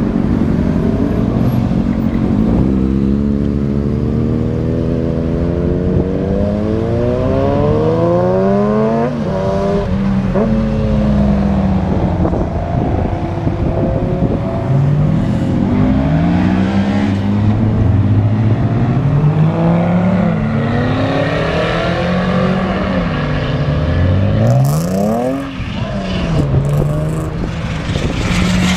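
Loud car exhausts revving and accelerating away one after another. Engine pitch climbs several times, through a long pull early on and a sharp high rev near the end.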